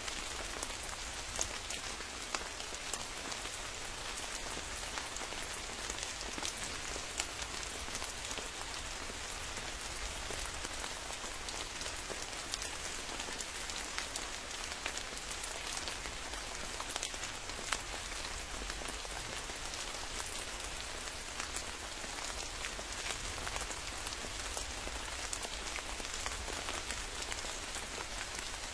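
Steady rain: an even hiss with many individual drops clicking sharply close by.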